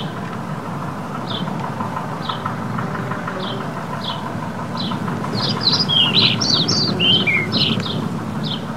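Small birds chirping: short, downward-sliding chirps repeating about once or twice a second, crowding into a quick flurry about two-thirds of the way through, over a steady low background rumble.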